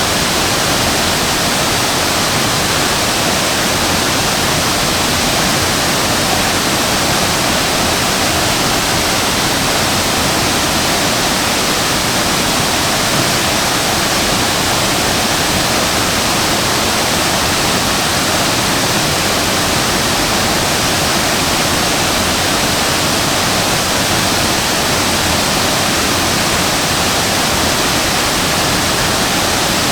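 Waterfall plunging into its pool: a loud, steady rush of falling water, with no change in level.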